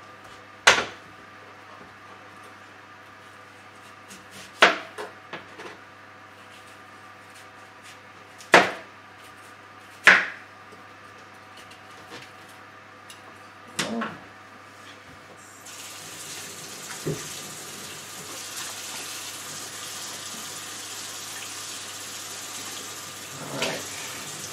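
Kitchen knife cutting through pumpkin and striking a cutting board: five loud sharp knocks a few seconds apart. About two-thirds of the way through, a kitchen tap starts running steadily into a steel sink as the pieces are rinsed.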